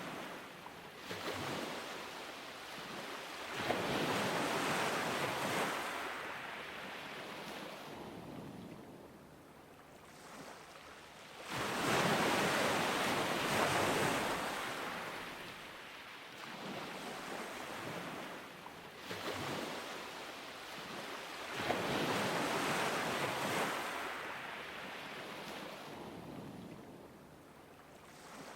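Ocean surf breaking on a beach: waves crash and wash up the shore in swells about every eight to ten seconds, ebbing between, with a light wind rush on the microphone.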